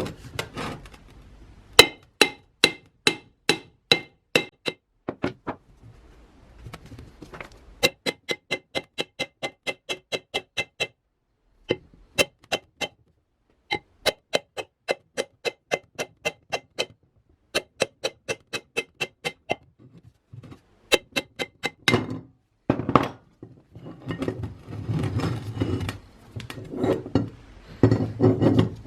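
Runs of steady, ringing hammer blows on metal, about three or four a second, in several bursts with short breaks between them. Near the end they give way to irregular scraping and rubbing.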